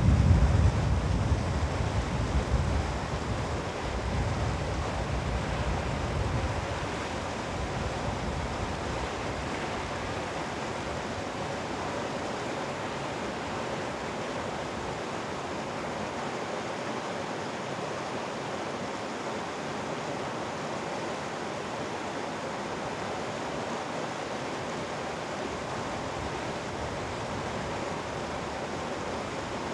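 Mountain valley stream rushing steadily over rocks, an even hiss of flowing water. Low wind rumble on the microphone in the first several seconds, fading out.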